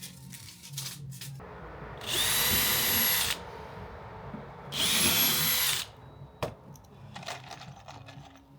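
Cordless power tool motor running in two short bursts of about a second each, about two seconds apart. Each time it spins up to a steady high whine and winds down again, with a few light clicks and knocks before and after.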